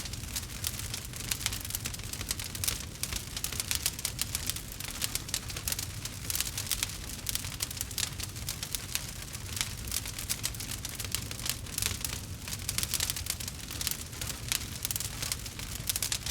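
Campfire burning, with many small irregular crackles and pops over a low, steady rumble.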